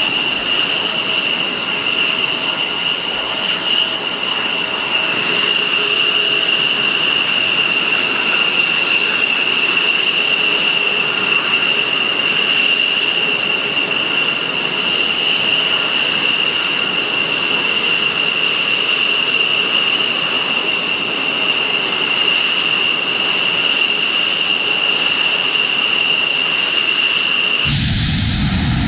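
F-16 fighter jet's engine running with a steady high-pitched whine over a rushing hiss. Near the end it changes abruptly to a deep rumble.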